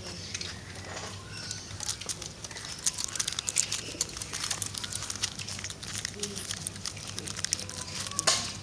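Pigeons pecking at corn kernels: a fast, irregular run of sharp clicks and taps, with one louder knock near the end.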